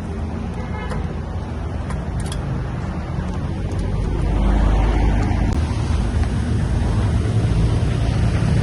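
A motor vehicle's engine running with road noise, a steady low rumble that swells about four seconds in.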